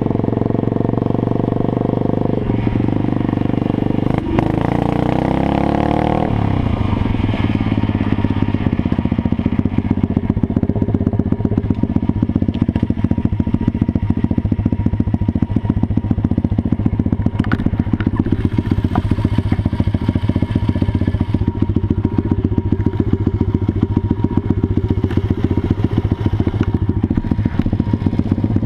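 Small petrol engine running, changing pitch about five seconds in, then settling into a steady, rapid beat of firing pulses.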